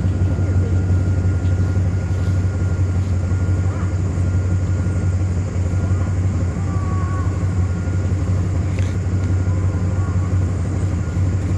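A truck engine running steadily at low revs, a constant low hum.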